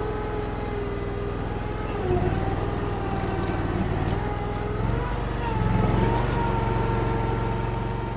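Honda gas engine of a Derette DRT450 mini skid steer running steadily just after being started, with slight shifts in its note about two and five seconds in.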